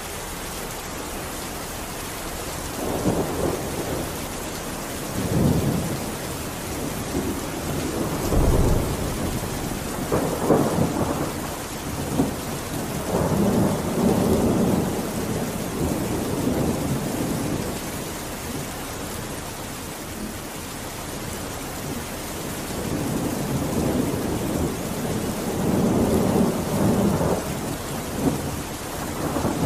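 Steady rain hissing, with rumbles of thunder swelling and fading several times.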